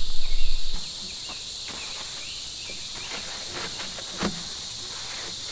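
Steady high-pitched chorus of insects in summer heat, with scattered light clicks and one sharper knock about four seconds in, as parts are handled. A low rumble cuts off abruptly under a second in.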